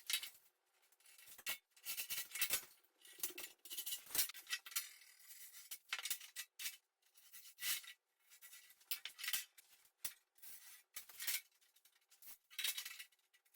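Marking out lines on sheet steel: a series of short, irregular scratching strokes of a marking tool drawn over the metal, with small knocks of the tool and rule being moved.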